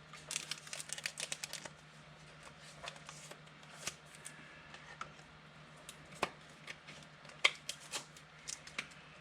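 Football trading cards being handled and flicked through: a quick run of card flicks lasting about a second and a half, then scattered single clicks and snaps.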